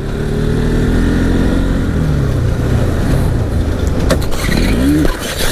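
Motorcycle engine with heavy wind rush, the revs dropping over the first two seconds, then a brief rise in revs just before a sharp knock at the end.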